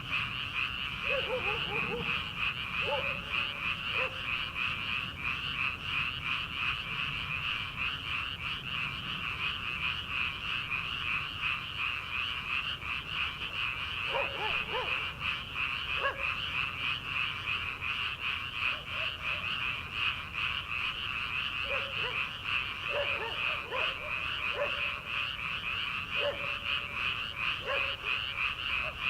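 Dense chorus of frogs calling from a rice paddy, a continuous mass of rapid, overlapping croaks. A few lower, shorter calls stand out now and then.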